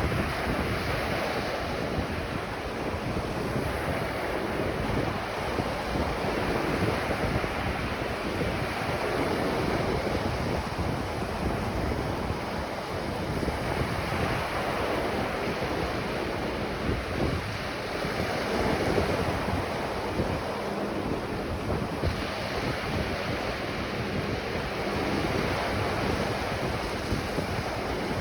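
Ocean surf breaking and washing on a beach in continuous rolling waves that swell and ease every few seconds, with wind buffeting the microphone.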